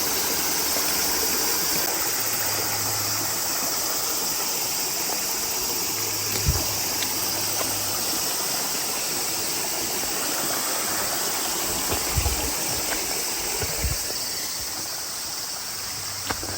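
A stream of water flowing and splashing with a steady rushing sound. A few dull low bumps come through about six seconds in and again around twelve to fourteen seconds.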